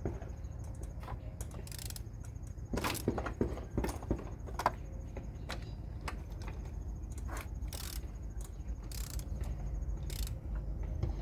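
Scattered, irregular knocks and taps of roofers' hammers pounding at a distance, over a steady low hum.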